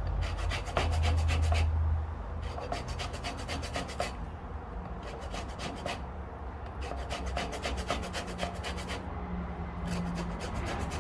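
Orange peel being rasped against a fine grater to take off the zest: quick runs of scraping strokes, broken by short pauses.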